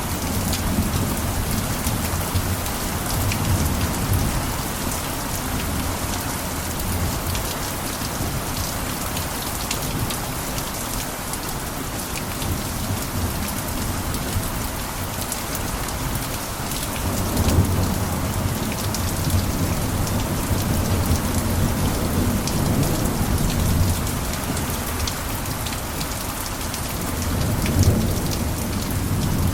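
Steady rain pattering on a roof, with low rumbles of distant thunder swelling up at the start, again past the middle for several seconds, and briefly near the end.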